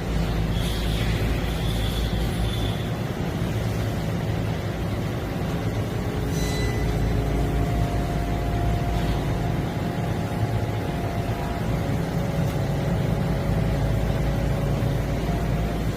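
Machine tool running steadily while drilling aluminium bar stock: a constant motor and spindle hum, with brief high-pitched cutting tones in the first few seconds and again around the middle.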